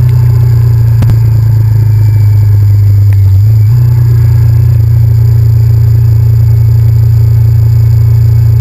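Honda VTR1000F's V-twin engine running loud and low-pitched at a steady speed, its pitch dropping a little about three and a half seconds in.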